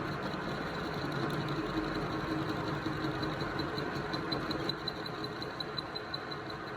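A machine running steadily, with a fast regular ticking of about five ticks a second running through its hum.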